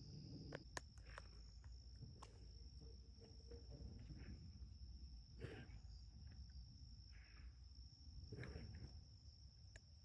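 Faint, steady high-pitched trilling of insects, with a few soft clicks and rustles over the top.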